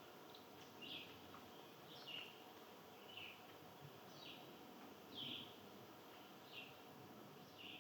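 A bird repeating one short, faint chirp about once a second, each note dropping slightly in pitch, over a low outdoor hiss.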